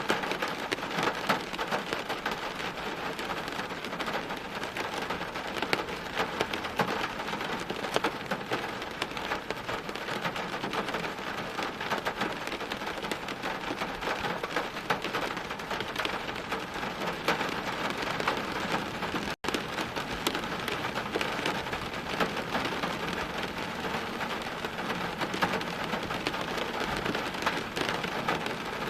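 Steady rain falling on hard surfaces, with many sharp individual drop hits through an even wash of rain. The sound cuts out completely for an instant about two-thirds of the way through.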